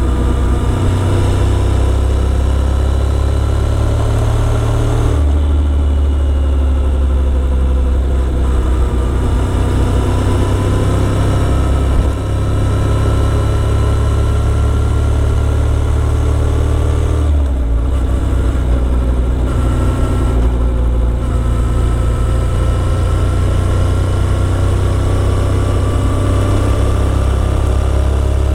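Motorcycle engine running steadily on the move, its pitch rising and falling slowly with the throttle, with brief changes in tone about five seconds in and twice near the two-thirds mark.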